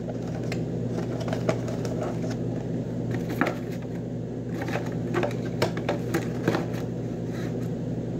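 Fried chicken being chewed close to the microphone: scattered small crunches and mouth clicks over a steady low hum.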